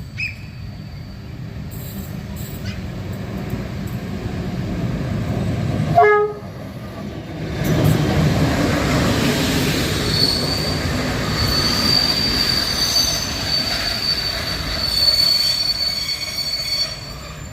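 Passenger train hauled by a CFR class 060-EA electric locomotive approaching, its rumble building, with a short horn sound about six seconds in. The train then runs past loudly, with a steady high-pitched wheel squeal from about ten seconds in.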